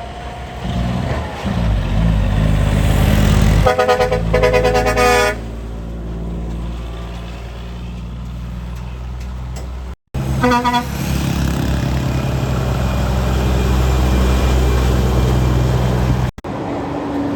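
Heavy semi-trailer truck's diesel engine running with a steady low rumble, its horn sounding for about a second and a half a few seconds in, then a second short horn blast about ten seconds in.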